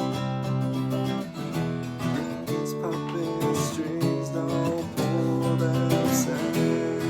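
Instrumental passage of a song, led by strummed acoustic guitar.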